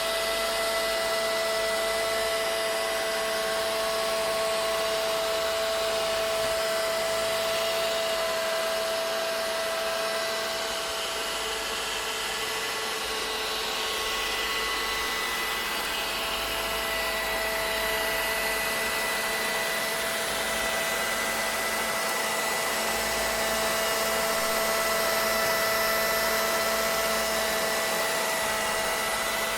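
Vacuum cleaner running continuously: a steady hiss of rushing air with a constant motor whine.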